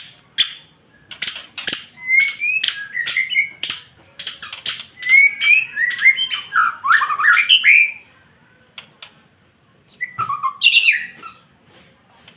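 Murai songbird singing a string of varied, quickly gliding whistled and warbled phrases mixed with sharp clicking notes. It pauses briefly and then gives one more phrase near the end.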